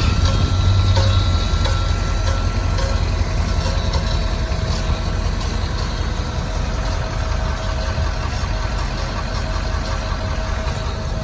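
2012 Ford F-250 Lariat pickup's engine idling steadily.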